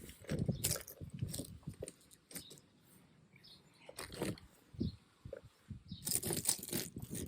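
Pieces of garden ice being handled and set against each other: irregular clinks and crunches, with a dense run of them about six seconds in.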